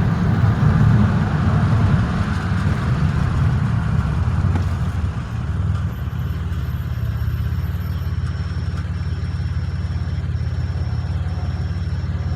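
Inside the cabin of a 2007 Pontiac Grand Prix GT, road and engine noise as the car slows for a red light. From about five seconds in it settles to a steady, quieter low hum of the V6 running. In the second half a faint high steady tone, broken at regular short intervals, sits above it.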